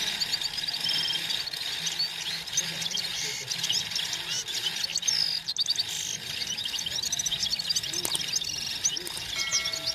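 Red-fronted serin song: a fast, unbroken run of high twittering chirps and short trills.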